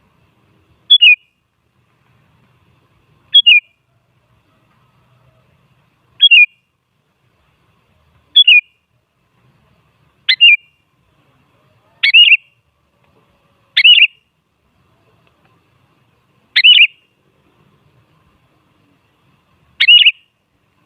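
Sooty-headed bulbul (kutilang) giving short, sharp, falling calls, nine in all, one every one to three seconds.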